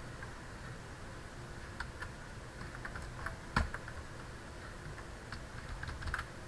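Keys pressed on a computer keyboard: scattered single clicks, one sharper press a little past halfway and a quick few together near the end.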